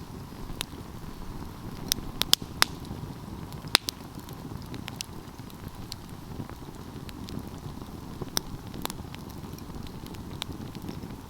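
Wood fire burning with a steady low rush of flames and irregular sharp crackles and pops, a quick cluster of them about two seconds in and a loud single pop a little later.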